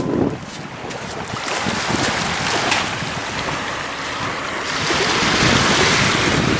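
Ocean surf washing in, with wind rumbling on the microphone; the wash grows louder in the second half.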